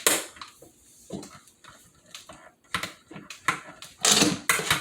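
Clicks and rattles of a window blind's headrail being pressed up into its mounting brackets, with a loud burst of clattering about four seconds in as it is compressed to snap into place.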